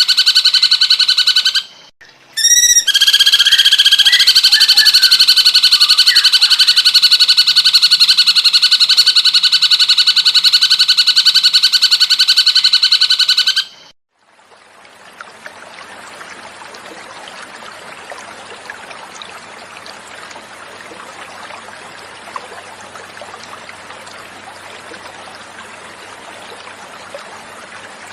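Cucak cungkok bird song: a loud, very fast trill held at a steady pitch, broken briefly about two seconds in by a short rising note, that stops about halfway through. A quieter steady flowing-water sound follows.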